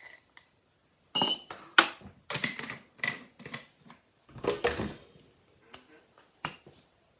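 Dishes and cutlery being handled, likely while making coffee: a run of irregular short clinks and knocks, with a little ringing, starting about a second in.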